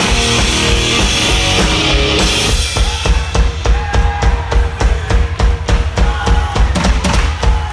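Live rock band playing loudly. About two seconds in, the dense wash of distorted guitar and cymbals drops away, leaving the drum kit and bass pounding out a steady, driving beat.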